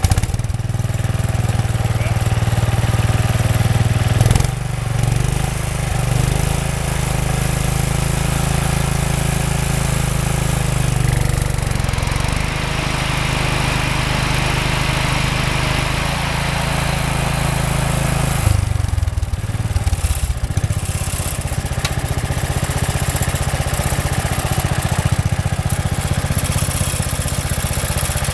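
Wheel Horse B80 lawn tractor engine running steadily just after starting, its note shifting a few times: about four seconds in, around eleven to twelve seconds, and again around nineteen seconds.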